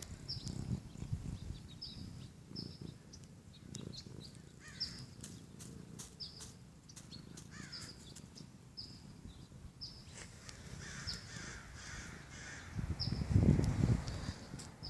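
Outdoor birdsong: a short high chirp repeats roughly every two-thirds of a second, with harsher, crow-like calls joining from about ten seconds in. A loud low rumble near the end, like wind or handling on the microphone, is the loudest sound.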